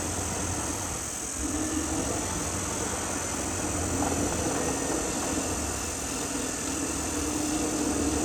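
Caterpillar D6R XL bulldozer's diesel engine running steadily, with a hum that wavers slightly.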